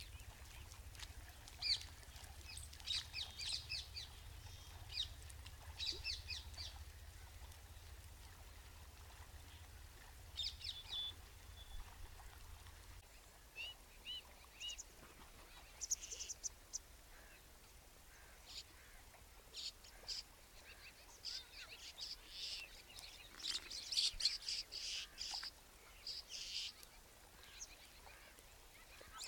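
Birds calling in quick bursts of high chirps, scattered through the whole stretch and thickest near the start and towards the end, over a faint low hum that stops about halfway through.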